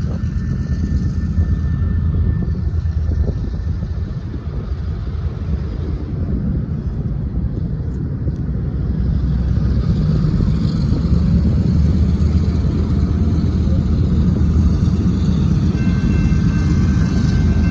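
Diesel switcher locomotive (EMD SW1500) engine running, a steady low rumble that grows louder from about halfway through.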